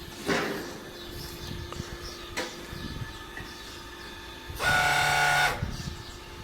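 Powered hoof-trimming chute for cattle working as it lifts a cow: a couple of knocks, then a loud steady hiss with an even mechanical tone for about a second near the end.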